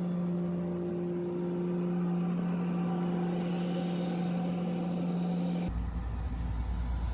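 Steady engine drone with a constant hum. About six seconds in it cuts off abruptly and gives way to a deeper, rougher rumble.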